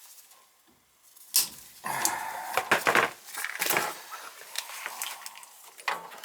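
Handling noises: sharp clicks and knocks with stretches of rattling as parts are moved and fitted by hand, starting about a second in.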